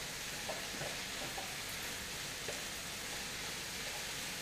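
Vegetables and tempeh sizzling in a small wok, stirred with a wooden spatula: a steady frying hiss with a few light scrapes and taps.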